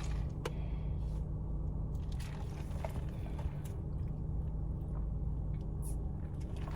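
Steady low hum of a car cabin, with a few faint clicks.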